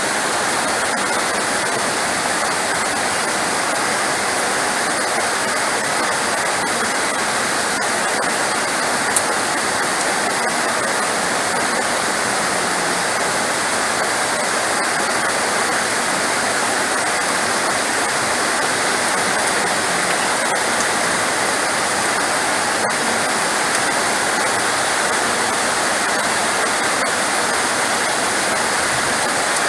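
Heavy rain falling in a steady, even hiss, with one faint click about nine seconds in.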